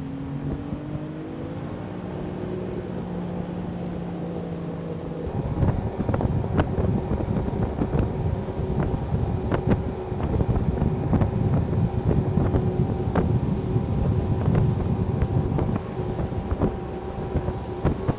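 Airboat engine revving up and running as the boat gets under way. About five seconds in, a loud rushing of wind on the microphone takes over, with frequent sharp knocks.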